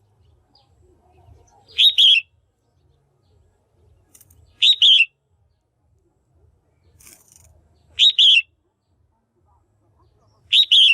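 Female red-whiskered bulbul calling: a short, loud double-note call repeated four times, about every three seconds. It is the kind of female call used to stimulate male bulbuls.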